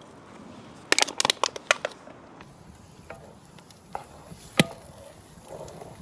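Cooking clatter of utensils on hard surfaces: a quick burst of about seven sharp knocks about a second in, then a few single knocks, the loudest about three and a half seconds later, over a faint steady background hiss.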